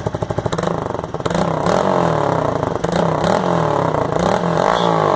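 Honda Grom's 125cc single-cylinder four-stroke engine revved repeatedly through a titanium exhaust with its baffle in, the pitch rising and falling with each blip up to about 8,000 rpm, after idling briefly at the start.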